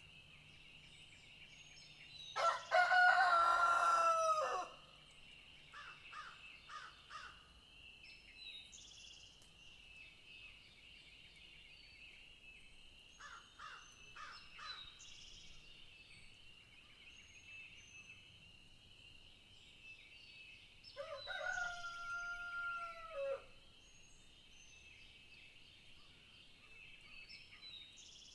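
A rooster crowing twice, each crow a long call that rises, holds and drops off at the end: once a couple of seconds in and again near the end. Between the crows come a few shorter calls, with small bird chirps and a steady high-pitched drone underneath.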